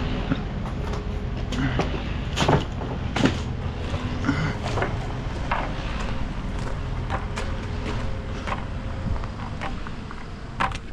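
A steady engine hum, with scattered knocks and clicks over it.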